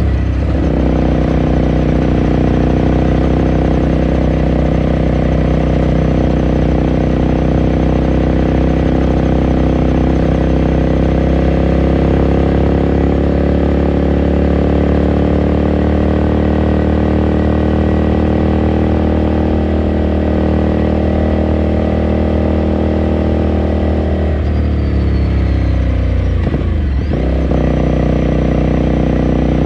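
2018 Ducati Scrambler Sixty2's air-cooled 399 cc L-twin heard onboard while riding, engine note holding steady with revs slowly climbing. About three-quarters of the way through the revs drop away sharply, then pick up again near the end.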